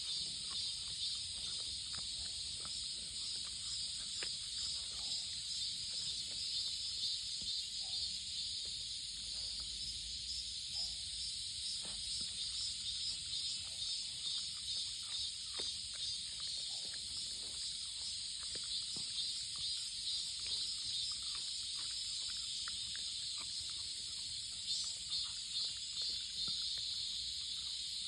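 Steady high-pitched chorus of insects chirring with a fine pulsing texture, with scattered faint clicks throughout.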